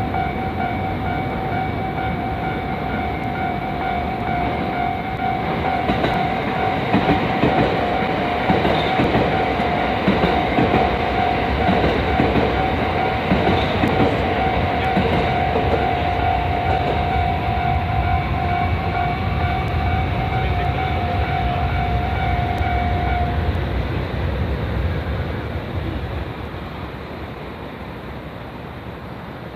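A train passes over a level crossing, its wheels clacking over the rail joints, strongest in the middle, while the crossing's electronic warning bell rings steadily. The bell cuts off about 23 seconds in, and the train's rumble then fades.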